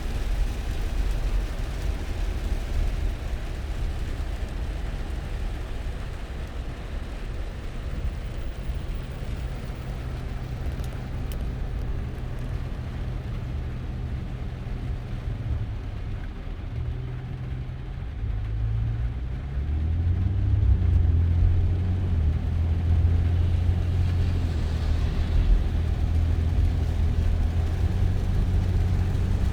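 Car driving, with a steady low engine and road rumble. About two-thirds of the way in, the engine note steps up and grows louder.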